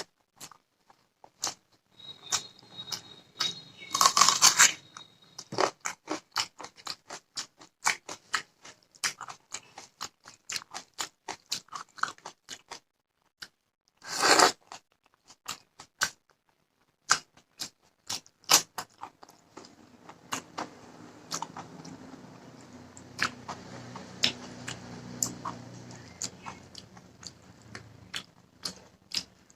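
Close-up eating sounds from a meal of fish curry and rice: wet chewing with many small mouth clicks and squelches, and a few louder crunchy bites, about 4 s and 14 s in. A faint low hum runs underneath from about two-thirds of the way through.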